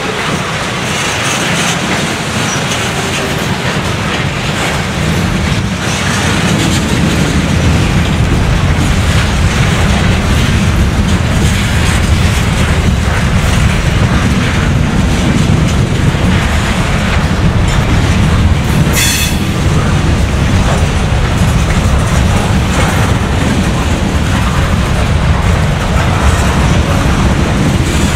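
Loaded freight cars of a slow CSX manifest train rolling past: tank cars, gondolas and coal hoppers. Their steel wheels rumble and click steadily over the rail joints, growing louder over the first several seconds, with one brief high squeal about two-thirds of the way through.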